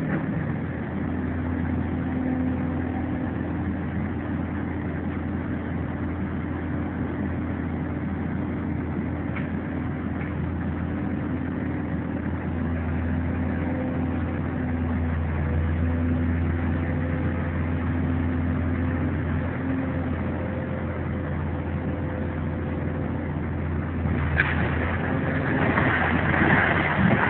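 Heavy diesel engine of demolition machinery running steadily, its pitch shifting now and then. A louder clatter starts about three seconds before the end.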